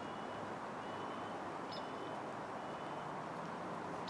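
Steady outdoor background noise with a small bird calling faintly about every two seconds: a short high note, then a brief level whistle.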